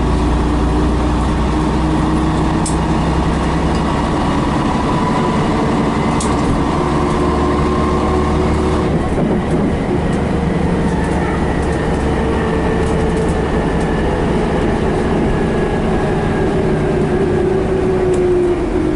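Scania BR111H bus's diesel engine running under way. Its note holds steady, changes about nine seconds in, then slowly falls in pitch.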